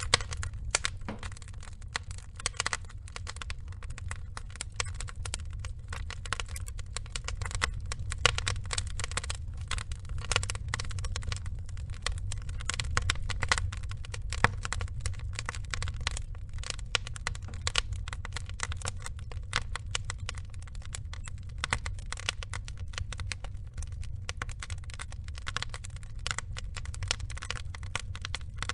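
Burning logs crackling: dense, irregular snaps and pops over a steady low rumble, with a few louder pops.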